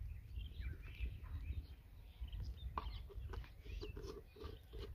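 Birds chirping and calling, many short calls one after another, over a low steady rumble.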